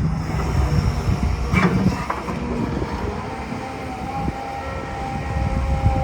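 Hitachi ZX210LC-7 excavator running: a steady low diesel rumble with a faint steady whine over it, and a short clatter about a second and a half in.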